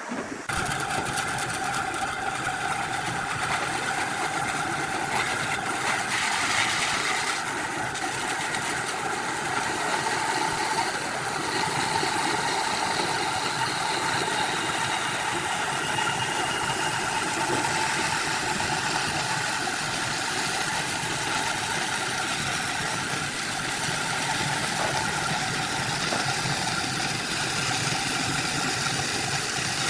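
A motor-driven machine running steadily, with a constant hum of several tones that holds the whole time.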